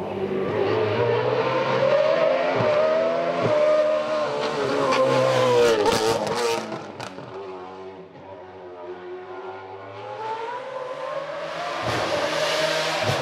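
Racing car engine at full throttle, revving up and down through gear changes, with sharp cracks around the shifts. It is loudest in the first half, fades about eight seconds in, then grows louder again near the end.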